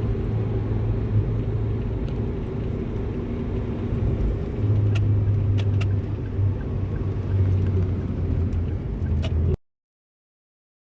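Steady low rumble of road and engine noise heard from inside a moving car, with a few faint clicks; it cuts off suddenly near the end.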